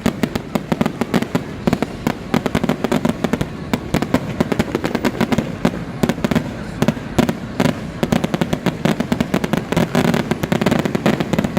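Aerial fireworks going off in rapid, overlapping succession: a dense barrage of sharp bangs and crackles over a continuous low rumble of booms.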